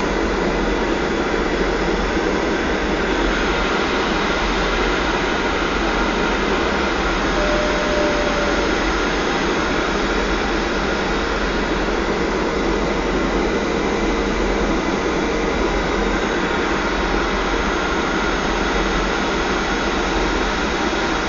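Boeing 737-500 with its CFM56-3 jet engines: a steady rush of engine and airflow noise, with faint steady tones on top, while the airliner comes in to land.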